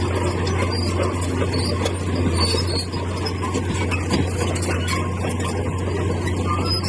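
Komatsu bulldozer working, its engine running as a steady low drone, with squeaking and scraping and stones clinking over the top.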